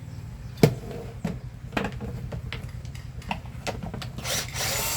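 Scattered clicks and taps of tools on a plastic vacuum-cleaner casing, then, about four seconds in, an electric screwdriver runs steadily for about a second, backing out a hidden screw.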